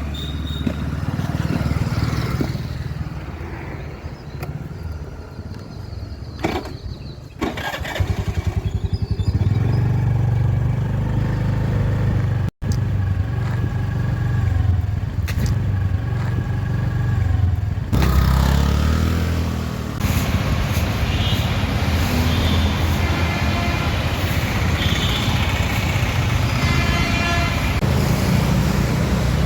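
Scooter engine running steadily during a ride through city traffic, with road noise. The sound drops out for a moment about twelve seconds in.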